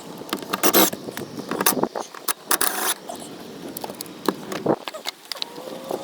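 Irregular clicks, rattles and short scrapes of hand work on a car interior: plastic dash trim and its clips and small hardware being pried loose and handled.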